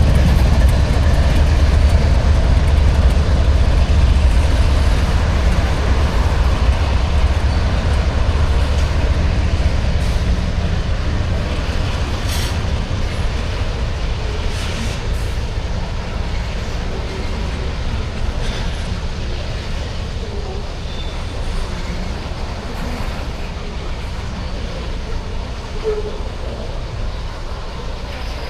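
Departing freight train: the low rumble of diesel locomotives that slowly fades as the train pulls away, leaving the steady rolling of freight cars on the track.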